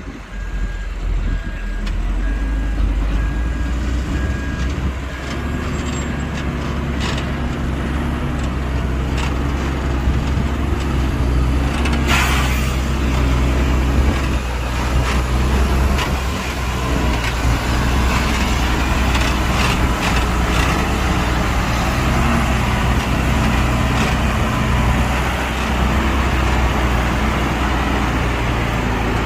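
Heavy construction machine's diesel engine running steadily with a deep drone, alongside scattered clanks. A short hiss comes about twelve seconds in.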